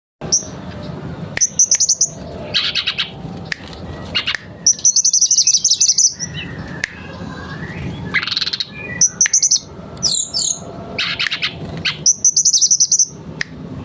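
Mangrove blue flycatcher (tledekan bakau) singing hard, in repeated bursts of fast, high-pitched trills with scratchy chattering phrases between them, over a steady low hum.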